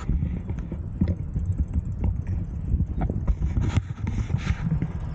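Wind buffeting the microphone in a deep, uneven rumble while riding a bicycle, with scattered knocks and rattles from the bike going over bumps.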